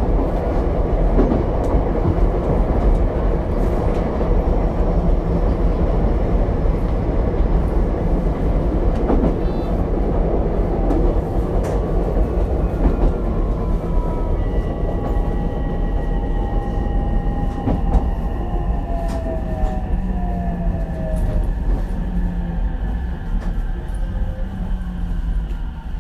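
Ichibata 7000-series electric railcar running, heard from inside the car: a steady rumble of wheels on rail. From about halfway, the motor whine slides down in pitch and the noise eases off as the train slows.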